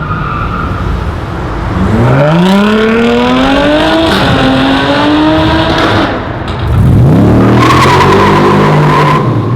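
A performance car's engine accelerating hard at full throttle. The revs climb steeply about two seconds in and hold high, drop briefly around six seconds in, then climb again and hold before the sound falls away near the end.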